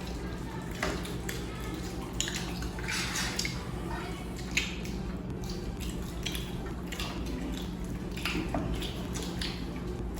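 Close-up eating sounds: irregular wet chewing and smacking while biryani is eaten, over a steady low hum.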